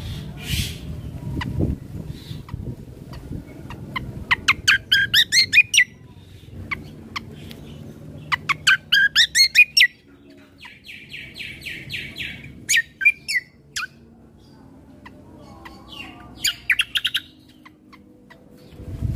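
Kecial kombo (cucak kombo) songbird singing: several bursts of rapid, quick-rising chirps, with a short buzzy rattle between them, over a low background rumble.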